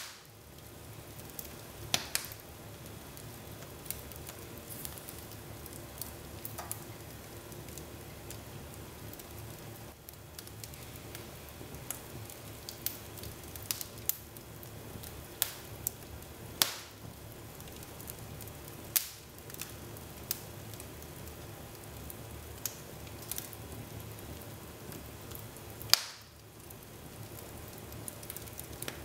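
Wood fire burning in a fireplace: a steady low hiss and rumble of flames, with scattered crackles and several sharp pops from the burning logs, the loudest pop late on.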